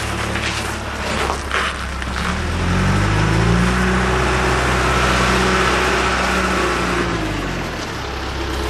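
John Deere 310G backhoe loader's four-cylinder diesel engine running, revved up from idle about two and a half seconds in, held at higher speed, then let back down near the end. A few sharp knocks sound in the first couple of seconds.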